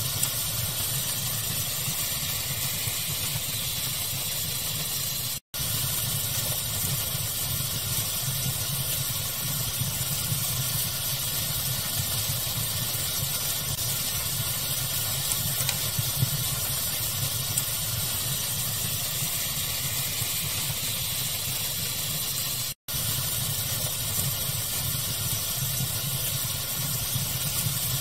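Steady pink-noise rush mixed with a fire's faint, scattered crackles. The sound cuts out for an instant twice, about five seconds in and again near the end.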